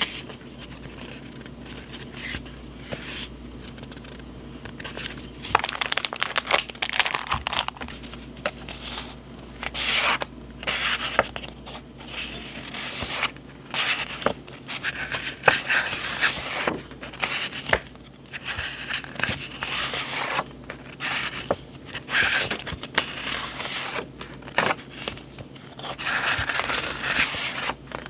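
Paper journaling supplies and their packaging handled close to the microphone: irregular bursts of rustling and crinkling paper with small taps and clicks.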